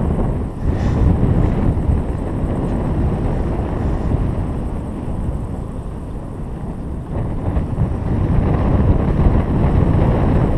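Wind rushing and buffeting over the microphone of a paraglider pilot in flight, a steady low rumble that swells and eases with the gusts.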